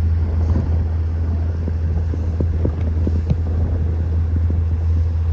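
Boat motor running steadily at low speed, a deep constant hum, with a few faint knocks scattered through it.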